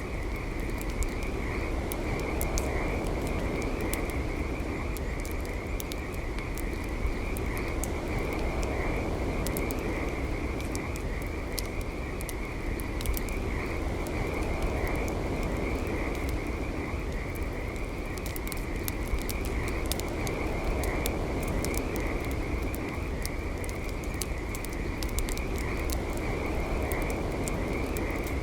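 Campfire crackling, with sharp pops scattered throughout, over a steady low rush. Behind it runs a continuous high-pitched, pulsing chorus of calling animals.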